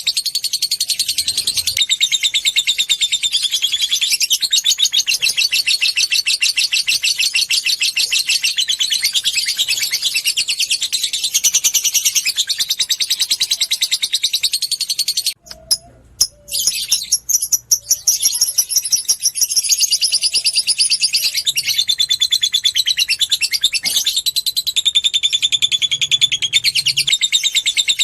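Lovebird singing a long 'ngekek': a continuous, very fast, high-pitched chattering trill of rapidly repeated notes, broken by a short pause about halfway through before it carries on.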